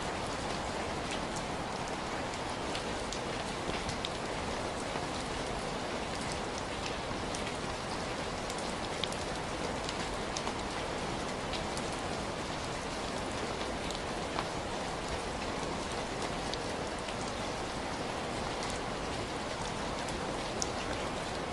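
Heavy rain falling steadily: an even hiss of rainfall with scattered sharp ticks of single drops striking close by.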